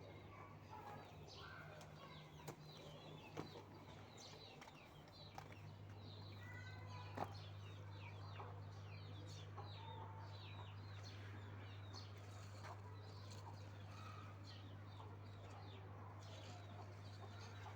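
Birds chirping and calling in quick, short notes throughout, over a steady low hum, with a few faint clicks.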